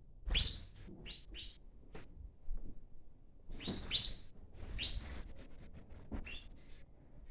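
Domestic canaries giving short, sharp chirping calls in a few quick bursts, the loudest about four seconds in.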